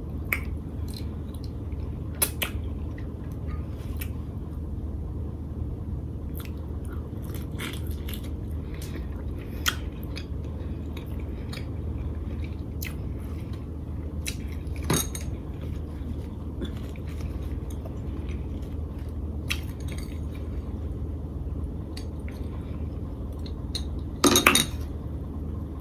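Close-miked chewing of lobster tail in butter sauce, with scattered short clicks and clinks of shell or utensils and a louder clatter near the end, over a steady low hum.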